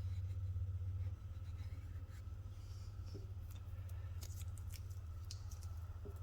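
Light scratching and scattered short clicks of small hand work, over a steady low hum.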